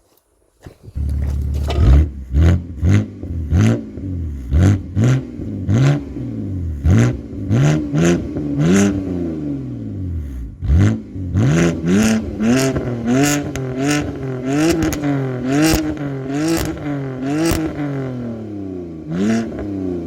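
BMW 325i E90's straight-six engine through a flap-valve exhaust: it comes in suddenly about a second in, then is blipped over and over, roughly once a second, each rev rising and falling in pitch with a sharp crack at each blip.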